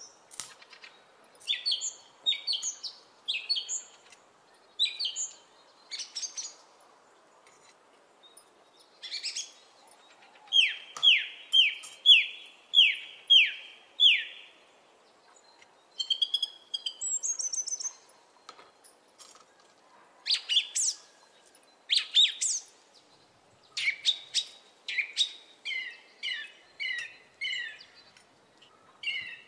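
Birds chirping: groups of short chirps that sweep downward in pitch, with a run of six evenly spaced notes a little under halfway through.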